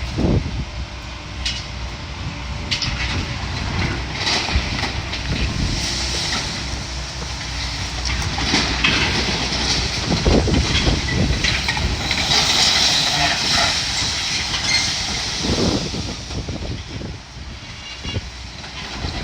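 Heavy demolition machinery tearing through a building's debris: a steady engine rumble with irregular clanks, scrapes and crashes of metal and rubble.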